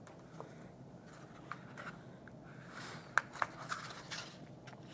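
Faint scratching and rustling of a fuzzy pipe cleaner being pushed through a hole in a cardboard base and twisted by hand, with a few small clicks about three seconds in.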